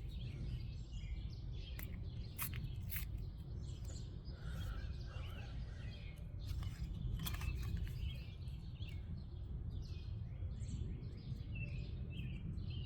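Birds chirping now and then over a steady low rumble, with a few sharp clicks, one near the start and another about seven seconds in.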